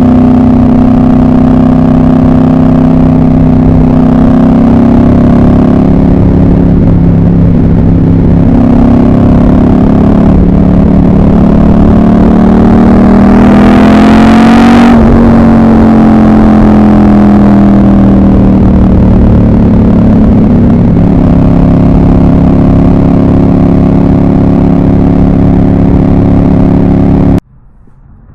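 Ducati 748's 748cc desmodromic L-twin engine running steadily under way, loud. About halfway through, a rush with a pitch that rises and then drops sharply sounds like something passing. The sound cuts off suddenly near the end.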